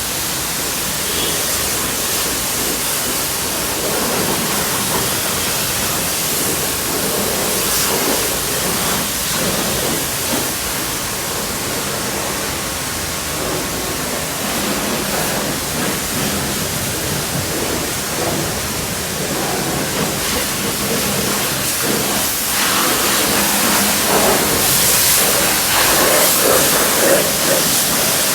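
Water spraying in a steady hiss, louder with uneven surges near the end.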